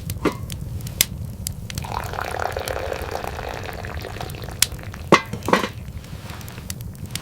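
Liquid pouring for about two seconds, among sharp clicks and knocks like dishes being handled, with two louder knocks near the end.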